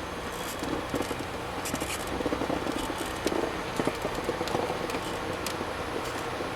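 Rail grinding machine at work: a dense, irregular crackling scrape of grinding stones on the railhead over the steady low hum of the machine's engine.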